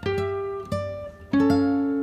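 Background music: slow plucked guitar notes, each ringing and fading before the next.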